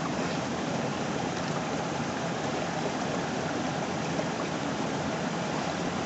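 A river flowing close by, a steady, even rush of water.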